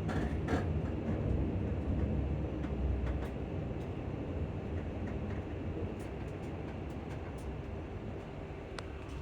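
Inside a ScotRail Class 334 electric multiple unit on the move: a low rumble with faint steady motor tones, easing gradually as the train slows, with a few light knocks and rattles.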